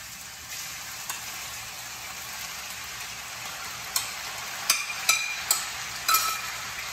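Marinated chicken pieces sizzling as they are spooned into hot oil in a frying pan. In the second half a spoon clinks sharply against the bowl and pan about five times.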